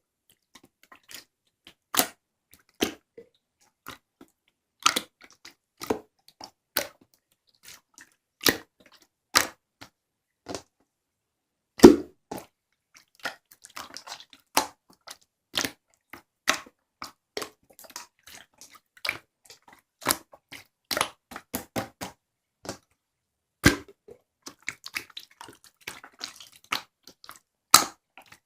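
Irregular sharp taps and clicks of small objects being handled, a few spaced a second or more apart and some in quick clusters, with several louder knocks.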